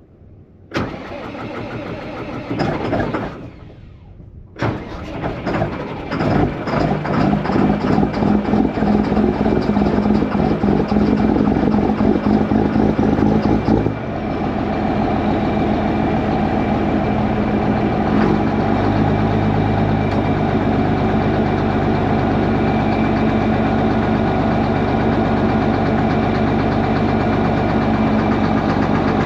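John Deere 4960 tractor's six-cylinder diesel being started cold: the starter cranks, stops briefly, then cranks again until the engine catches. It runs unevenly at first, then settles into a steady idle about 14 seconds in. This is a hard cold start, which the driver blames on taking his hand off the key too quickly.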